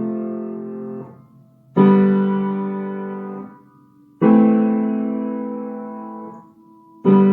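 Piano playing low left-hand chords one at a time: a chord rings out and fades, then three more are struck about two and a half seconds apart, each left to die away before the next.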